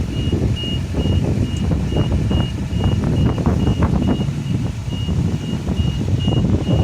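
A truck's high electronic warning beeper sounding steadily, about two short beeps a second, over a running engine's rumble, with scattered knocks and clunks.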